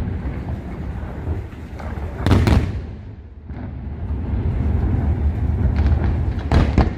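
Aerial firework shells bursting: two loud booms, one about two and a half seconds in and another near the end, over a continuous deep rumble of further explosions.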